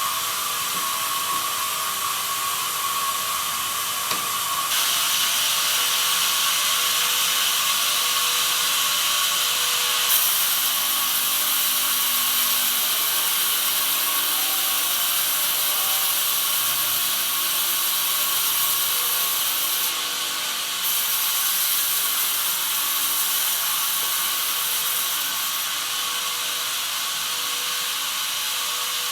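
Band sawmill running with its blade sawing through pine, a steady hissing, whining saw noise. It grows louder and brighter about five seconds in and again around ten seconds in, with a brief drop around twenty seconds in.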